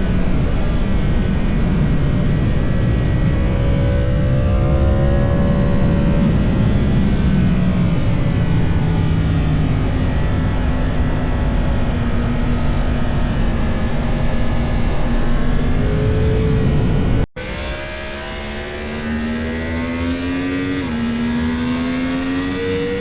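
Motorcycle engine on track, rising and falling in pitch as it accelerates and slows, over a heavy rush of wind noise. About 17 seconds in it cuts off abruptly. It then returns quieter, climbing in pitch, with one sudden drop and a fresh climb near the end that sound like an upshift.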